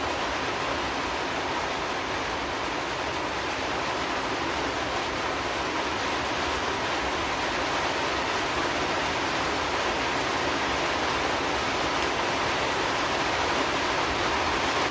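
Steady rain falling, an even dense patter that swells slightly near the end.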